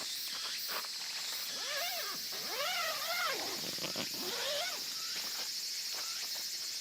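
An animal cries three times, each call short and rising then falling in pitch, over a steady high insect chirring and a few faint clicks.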